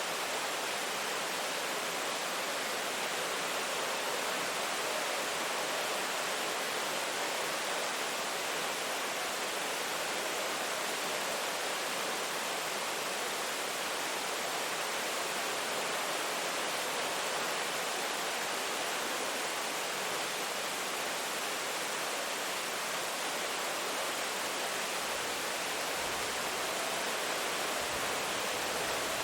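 Steady rain falling, an even continuous hiss with no pauses.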